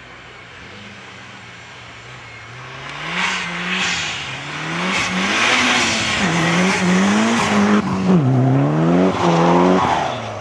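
Mitsubishi Lancer Evolution IX rally car's turbocharged four-cylinder engine revving hard as it approaches and passes, its pitch climbing and dropping again and again with throttle and gear changes. It grows loud about three seconds in and falls away near the end.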